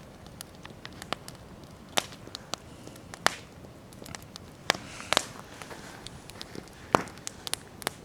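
Wood campfire crackling: irregular sharp pops and snaps over a low steady hiss, a few louder pops standing out, one about two seconds in and another about seven seconds in.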